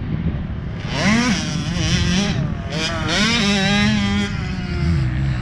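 Motocross dirt bike engine revving, its pitch rising and falling with the throttle, settling to a steadier, lower note near the end.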